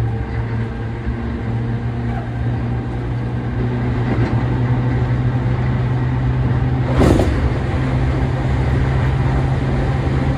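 Running sound inside a Toei 10-300 series electric train car at speed: a steady low hum over steady rolling noise. About seven seconds in comes one short, loud burst of noise.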